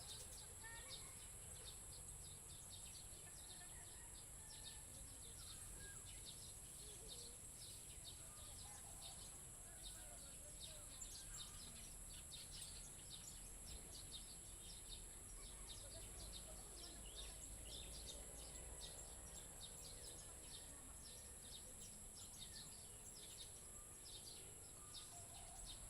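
Faint outdoor nature ambience: a steady high-pitched insect drone with frequent short bird chirps.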